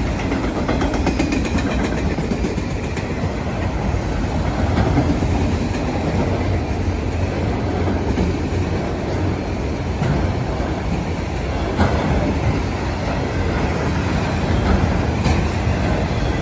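Norfolk Southern manifest freight train's cars rolling past close by: a steady, loud rumble of wheels on rail with occasional sharp clacks as the wheels cross rail joints.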